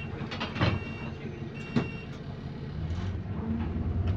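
Bus engine heard from inside the saloon, running low with a couple of sharp clicks and short two-tone beeps in the first two seconds, then getting louder and rising in pitch from about three seconds in as it revs up. The engine is said to have a subtle rod knock.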